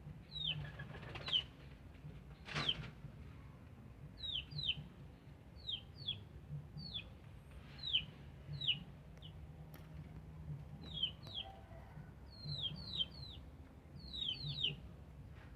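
Birds chirping: short falling chirps, singly or in quick runs of two or three, repeating every second or so over a low murmur. A brief rustle comes about two and a half seconds in.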